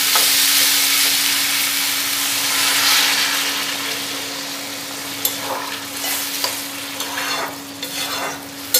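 Spiced chickpea and potato mixture sizzling in a hot metal kadai as water is poured in, the hiss loudest in the first few seconds and then dying down. A spatula then stirs and knocks against the pan a few times.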